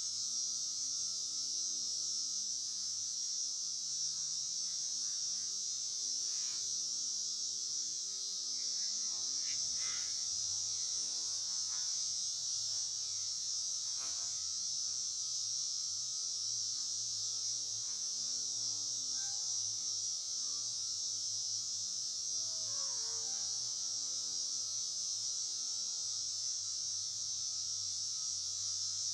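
Steady high-pitched hiss at an even level, over a faint low hum, with a few faint short chirps.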